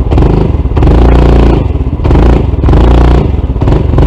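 Honda CT125 scooter engine, fitted with a 142 cc big-bore kit, running and revved up twice, with a metallic clattering knock from inside the engine. The owner takes it for a rod knock; the fault was later traced to a faulty piston and a misaligned valve.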